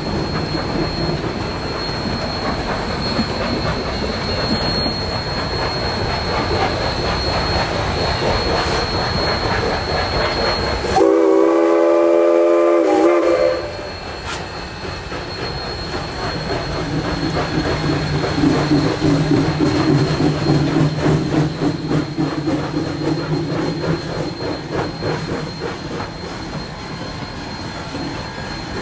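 Narrow-gauge steam locomotive running with its train over the rails, with a thin high squeal. About eleven seconds in, its steam whistle blows once for about two and a half seconds, then the running continues.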